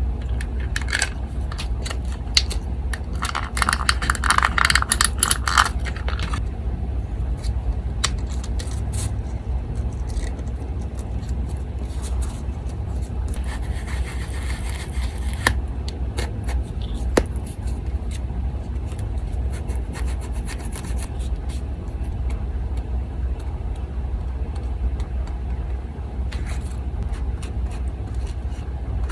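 Paper being handled and rubbed on a desk: rustling and scraping in short spells, loudest around four seconds in, with scattered small clicks and taps. Under it, the steady low hum of an electric fan.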